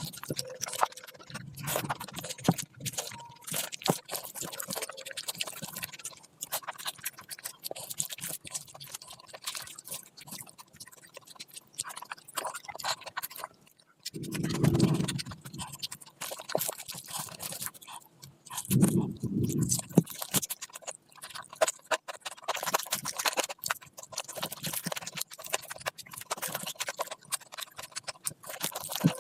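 Close-miked eating sounds: wet chewing and mouth clicks, irregular and continuous, with two short, deeper sounds around the middle.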